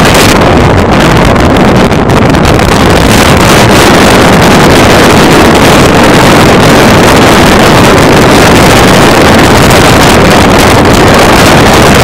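Loud, steady rushing noise spread evenly from deep to hiss, with no clear pitch or rhythm.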